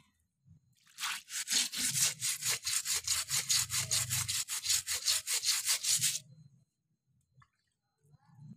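A stiff brush scrubbing moss off a slippery walkway in quick rhythmic strokes. The strokes start about a second in and stop about six seconds in.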